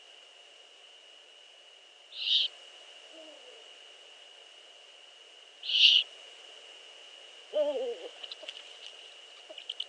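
Eurasian eagle owl chicks giving short, hissing begging calls, one every three to four seconds, over a steady thin high tone. Later a lower, falling call sounds, then a few faint clicks near the end.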